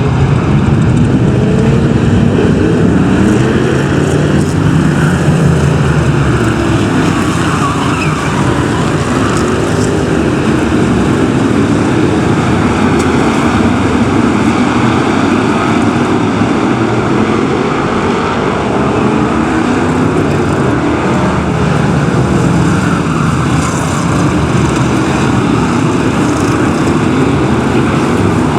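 A pack of BriSCA F1 stock cars' V8 engines running together on the track, their engine notes rising and falling over one another as the cars accelerate and lift.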